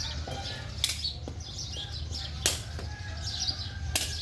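Sharp, evenly spaced hits about one every second and a half, like strikes in a rally, with birds chirping between them over a steady low hum.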